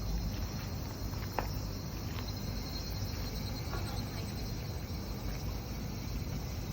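Wood fire burning hard in a perforated 18-litre can, with a steady low rumble and a few faint crackles.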